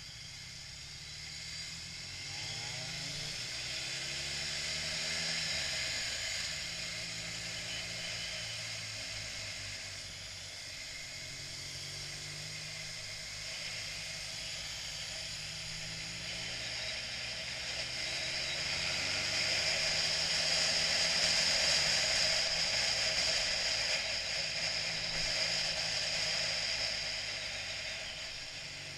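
BMW motorcycle engine running under way, its pitch rising and falling with the throttle, under a steady rush of wind noise that grows louder about two-thirds of the way through.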